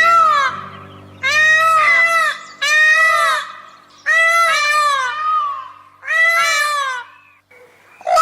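A bird giving a loud series of repeated calls, about six in a row, each roughly half a second long and rising then falling in pitch.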